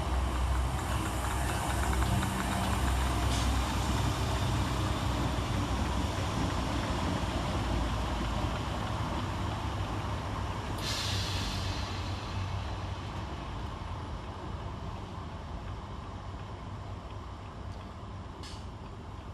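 Scotrail Class 320 electric multiple unit departing, a steady low rumble of the train running on the rails that slowly fades as it pulls away. A short burst of hiss about eleven seconds in.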